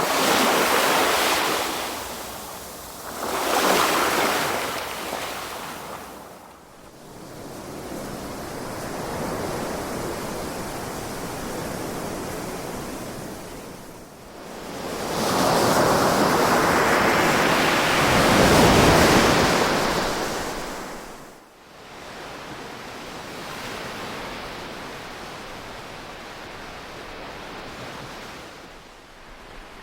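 Ocean waves breaking and washing on the shore: surges of surf swelling and falling, the biggest one building from about halfway and crashing, then fading into a softer wash.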